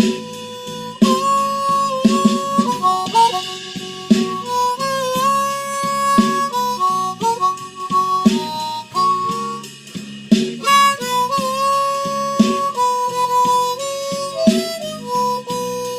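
Blues harmonica solo over a backing track of drums and bass: long held notes with short bends, on a steady drum beat.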